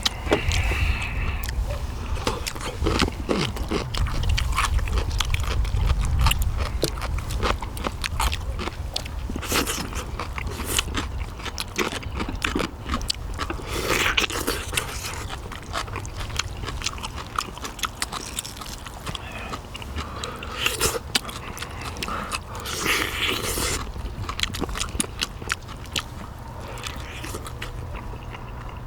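Close-miked eating: a person biting and chewing the meat off pork bones from gamjatang (pork bone stew), with many short clicks and small scrapes throughout.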